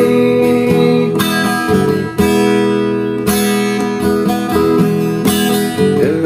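Instrumental music: acoustic guitar strumming sustained chords, with a new chord struck about once a second.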